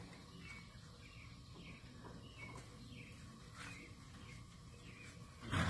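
Faint, scattered chirps of small birds over a quiet outdoor background hiss. Near the end comes a short, loud rush of noise.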